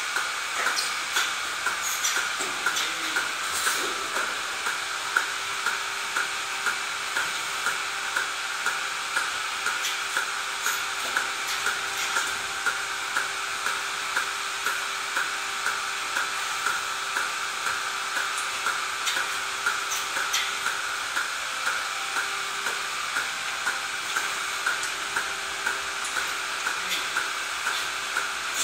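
Steady machine noise with an even pulse repeating a little faster than once a second.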